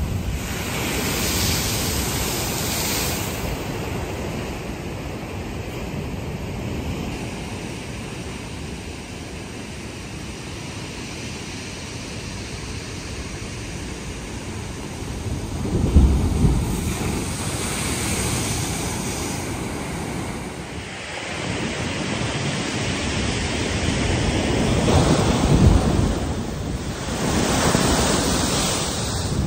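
Atlantic surf breaking and washing on the shore, a continuous roar of water that swells and ebbs with each wave. Wind buffets the microphone, and there are heavier surges about halfway through and again near the end.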